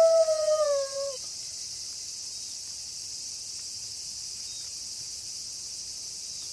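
A wolf's long howl trails off, its pitch sliding down before it ends about a second in. A steady, high chirring chorus of crickets then fills the rest.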